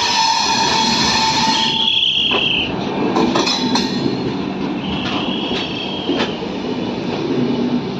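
Passenger train coaches rolling slowly past, a low rumble with wheel squeal rising twice, around two seconds in and again around five to six seconds, and scattered clicks of wheels over rail joints.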